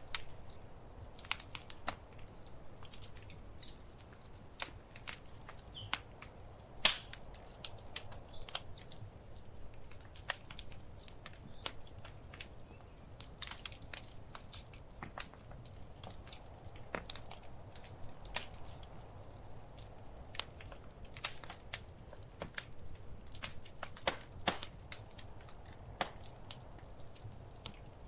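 Wood fire crackling in a fireplace: irregular sharp pops and snaps, a few louder ones, over a low steady rumble.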